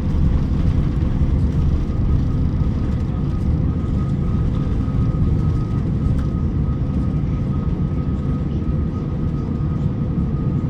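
Cabin noise of an Airbus A350-900 taxiing, its Rolls-Royce Trent XWB engines at idle. A heavy, steady low rumble carries a faint constant whine.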